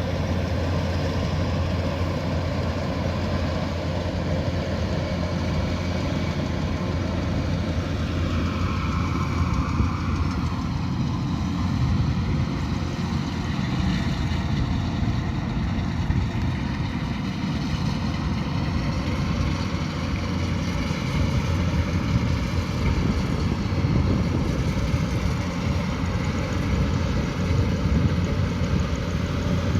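Kubota DC108X rice combine harvester running steadily at work: a continuous diesel engine drone mixed with the noise of its threshing machinery. The tone shifts slowly about eight seconds in.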